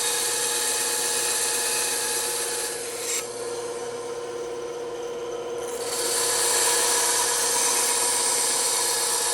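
Bandsaw running with its blade cutting through wood: a steady hum under a rasping cutting noise that eases for a couple of seconds in the middle and then comes back.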